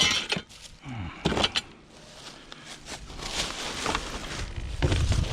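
Rummaging through discarded metal items: a sharp metallic knock at the start, a few clinks about a second and a half in, rustling, and a dull thump near the end.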